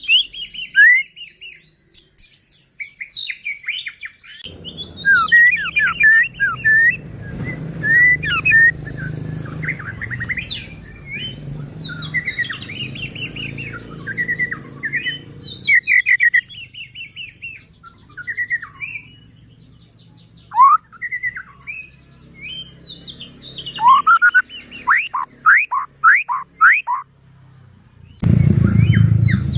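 White-rumped shama (murai batu) singing a long, varied song of rapid whistles, sweeping notes and short trills, with brief pauses between phrases. A low background rumble sits under the song for part of it.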